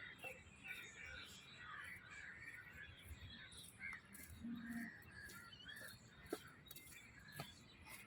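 Faint chorus of birds calling and chirping, many short calls overlapping.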